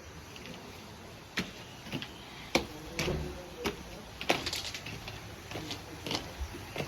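A series of light knocks and clicks over a low background, coming roughly every half second for the first few seconds and then more sparsely.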